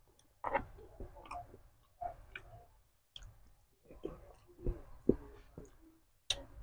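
A man chewing goat-head meat eaten by hand, with irregular wet mouth clicks and smacking, and a couple of sharper clicks about five seconds in.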